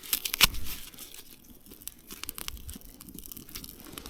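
Dry tinder and thin twigs being crumpled and snapped by hand while a fire lay is built: irregular crackles and small sharp snaps, the loudest about half a second in.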